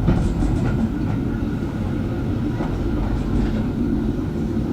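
Steady rumble of a moving railway passenger carriage, heard from on board, with a few faint clicks of the wheels over the rail joints.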